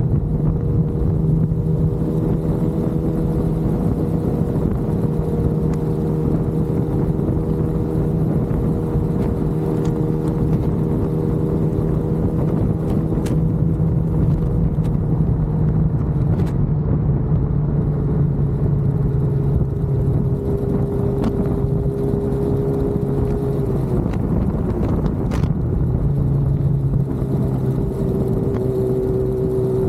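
Motorcycle engine running steadily at highway speed under heavy wind and road noise. The engine note dips about two-thirds of the way through, then settles again.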